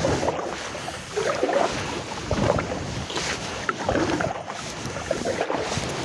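Canoe paddle strokes in the water, repeated surges of splashing every second or two as the canoe is paddled along slowly.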